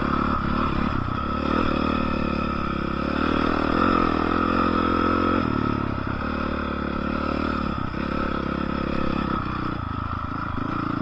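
Dirt bike engine running under way, its note shifting a few times with the throttle.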